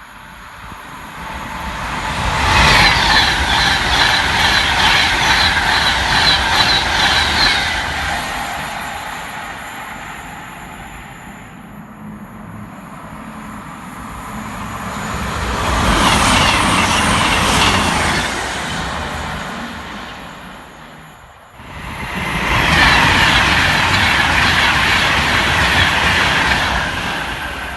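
Fast passenger trains passing at speed, three times in turn. Each is a rush of wheel-on-rail noise with quick clicking, which builds, holds for a few seconds and fades. The last pass comes in after an abrupt break.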